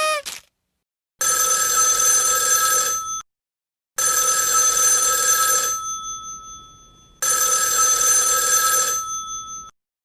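Telephone bell ringing three times, each ring about two seconds long with a short pause between rings.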